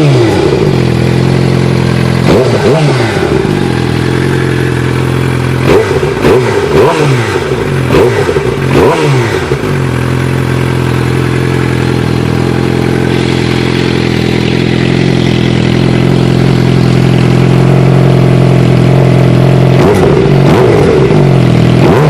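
2013 Suzuki GSX-R 600 inline-four through an M4 slip-on exhaust, revved in a run of short throttle blips through the first ten seconds, then settling to a steady idle, with another couple of blips near the end. A rattle from the stock exhaust heat shield, missing its rubber piece, rides over the idle.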